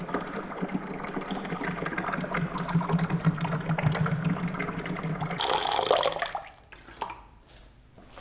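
Water poured in a steady splashing stream into a soldered stained-glass vessel, stopping about six seconds in, followed by a few faint clicks.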